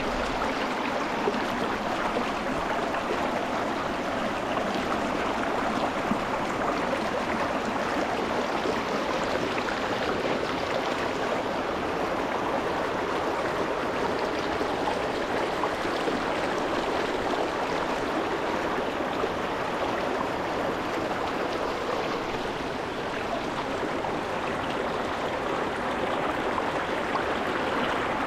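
Shallow rocky mountain stream flowing over stones, a steady even rush of water with no separate splashes or breaks.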